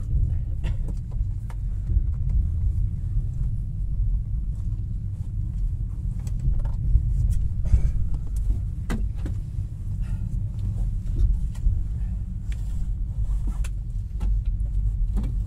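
Passenger train running: a steady low rumble with scattered knocks and clicks.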